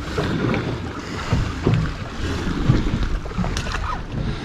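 Wind buffeting the microphone and the sea washing around a boat at sea, a steady low rumble, with a few short knocks on the boat.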